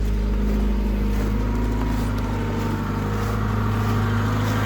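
Fuel-injected VAZ-2103 inline-four engine in an IZh-2717 idling steadily, warming up just after a hard cold start in frost.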